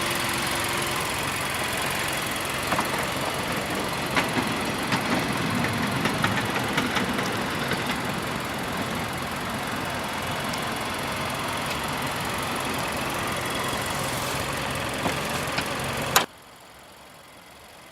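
Nissan Juke Nismo's 1.6-litre turbocharged inline-four idling steadily, with a few light ticks. About 16 seconds in, the sound drops abruptly to a much fainter level.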